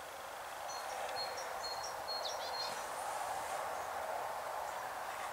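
Steady faint background hiss with a few short, high bird chirps scattered through it.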